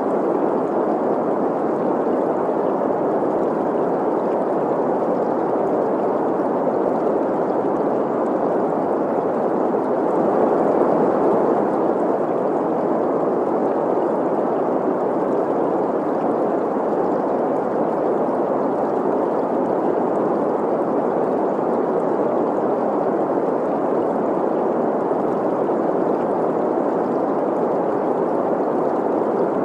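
Green noise, a steady even hiss centred in the midrange, blended with the rush and gurgle of a running stream, swelling slightly about ten seconds in.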